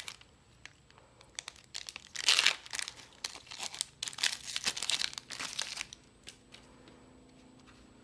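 Trading card booster pack wrapper being torn open and crinkled: scattered small clicks, a loud burst of rustling about two seconds in, and a longer run of crinkling from about four to six seconds.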